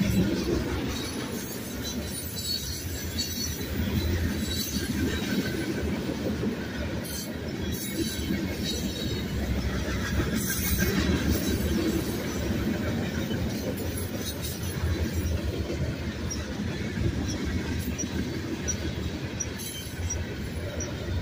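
Freight cars of a Union Pacific manifest train, mostly covered hoppers, rolling past on the rails: a steady rumble of steel wheels on track.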